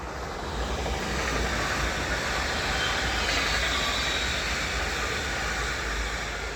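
A train passing on the line, its wheels and running gear rising to a peak about halfway through and then fading as it goes by.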